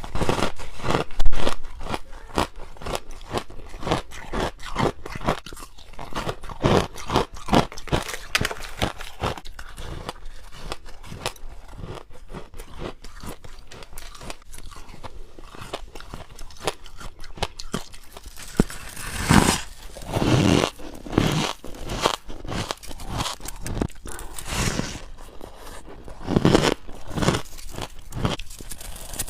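Close-up crunching as a person bites and chews frosty ice, a fast run of crackling bites at first, then slower chewing with a few louder bites near the end.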